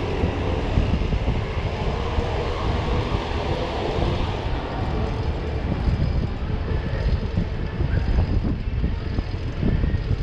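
Steady wind rumble on the microphone of a moving bicycle, with city street traffic noise beneath it.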